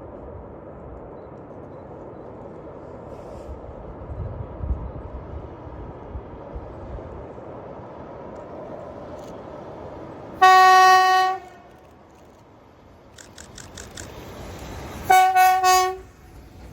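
Horn of a VL11 electric locomotive hauling a freight train, sounded twice about five seconds apart, each blast about a second long, over a steady rumble of the train.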